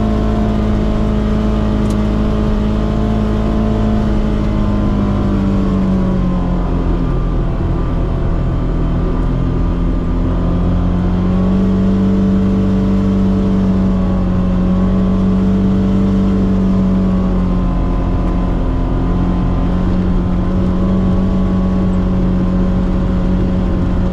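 Polaris Xpedition side-by-side's engine running steadily while driving a trail, its pitch sinking and rising gently as the throttle and speed change.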